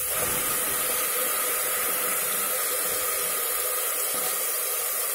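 Wet onion paste sizzling in hot mustard oil with whole spices in a pressure cooker: a steady, even hiss as the paste's moisture hits the hot oil.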